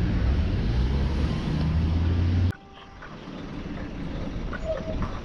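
Car engine running with a loud low drone, which cuts off abruptly about two and a half seconds in. A much quieter background hiss follows, with a few faint short chirps near the end.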